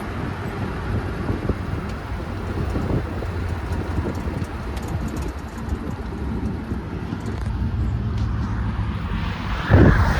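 Car engine running steadily at low revs, with wind on the microphone. A short loud bump about a second before the end.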